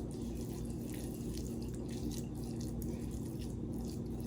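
Small wet clicks and drips as melted butter with Parmesan is stirred and dabbed with a brush, over a steady low hum.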